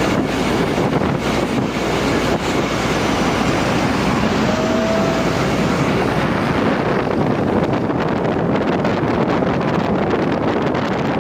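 Loaded truck under way, a steady rush of engine and road noise with wind buffeting the microphone. A brief faint high tone sounds about four and a half seconds in.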